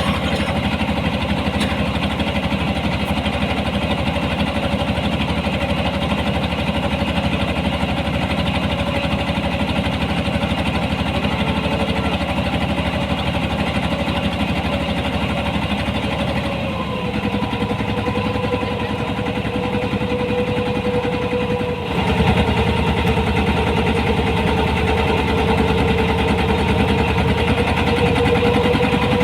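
A harvesting machine's engine running steadily under load. Its pitch drops slightly about 17 s in, and the sound changes abruptly and gets a little louder about 22 s in.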